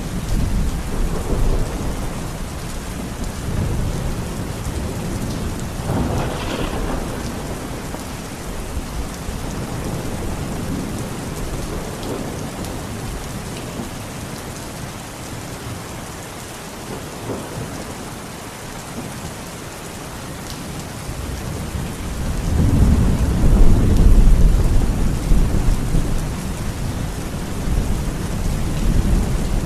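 Steady heavy rain with rolling thunder: a short crack of thunder about six seconds in, a quieter stretch in the middle, then a louder, longer rumble of thunder near the end.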